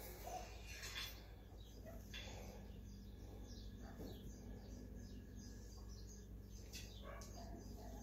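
Faint, scattered chirping of small birds over quiet room tone.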